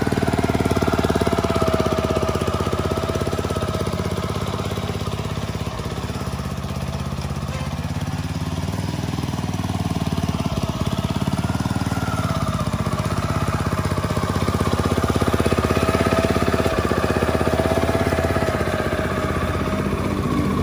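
Small four-stroke petrol engine of a restored farm machine running steadily, with its rapid firing beat throughout. It eases off a little several seconds in and picks up again later.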